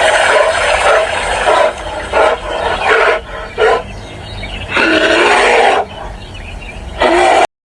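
A large animal calling repeatedly: a string of loud, pitched calls, two of them lasting about a second and several shorter ones between, with short pauses.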